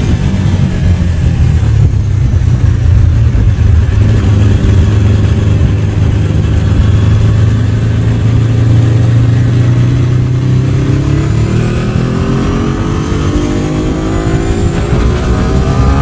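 Ducati 749 superbike's L-twin engine running, holding a steady note for several seconds. From about eleven seconds in it rises in pitch as the bike accelerates.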